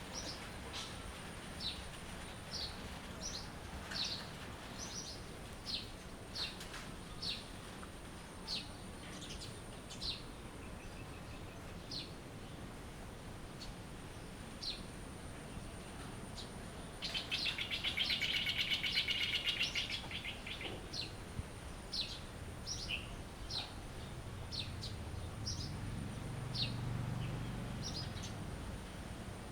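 Songbirds chirping: short, high chirps repeated about once a second, with a louder, fast trilling song lasting about three seconds a little past halfway, over a faint steady high whine.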